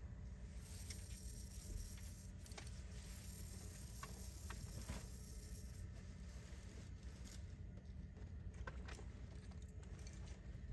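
Faint clicks and light rattling from a small wind-up toy's clockwork motor and plastic gearbox being turned and handled by hand, checked for a slipping gear train. A low steady room hum sits underneath.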